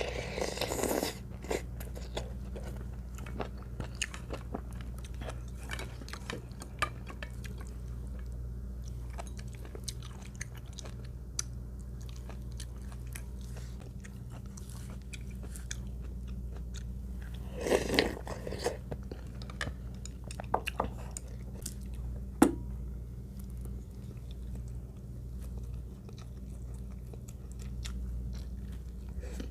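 A person chewing and crunching food close to the microphone, with many small wet clicks, two louder noisy bursts near the start and about two-thirds through, and one sharp click a little later. A steady low hum runs underneath.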